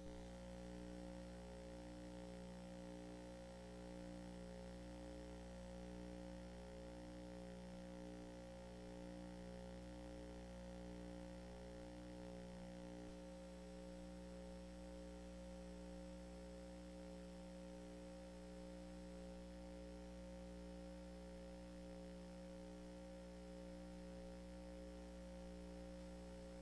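Faint electrical mains hum: a steady low buzz made of several fixed tones, one of them pulsing about once a second. About halfway through, the pulsing stops and part of the hum drops away.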